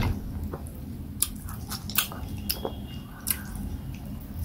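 Close-miked chewing of soft fufu and soup, with scattered wet mouth clicks and smacks.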